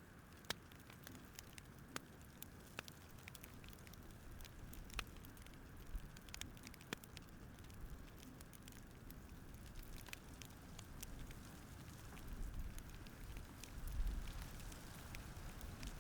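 Wood campfire crackling, with irregular sharp pops and snaps over a soft low rumble of the flames.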